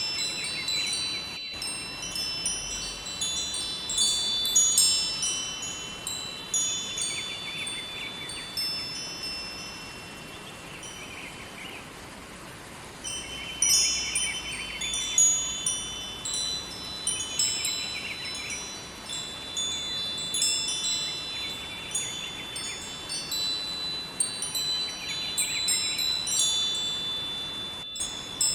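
Wind chimes ringing in irregular clusters of high, lingering tones, thinning to a lull about ten seconds in before picking up again, over the faint steady rush of a river.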